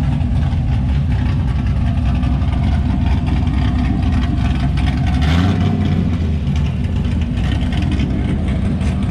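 Car engine idling steadily, with a brief rise and fall in engine pitch about five seconds in.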